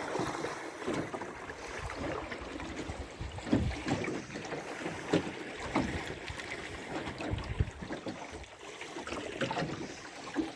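Water lapping and slapping against the hull of a small wooden Mirror sailing dinghy under way, with irregular low splashes and wind on the microphone.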